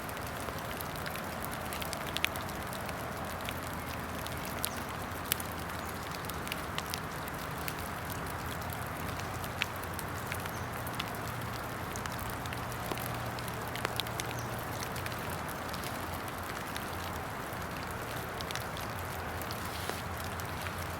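Steady hiss of rain falling, with scattered sharp ticks of drops striking irregularly.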